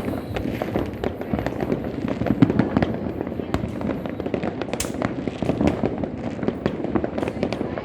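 A dense, continuous barrage of firecrackers and fireworks going off, with many overlapping bangs and pops following each other without a pause.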